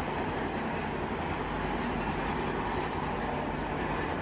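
A train of passenger coaches running past on the track, a steady even rumble with a faint low hum underneath.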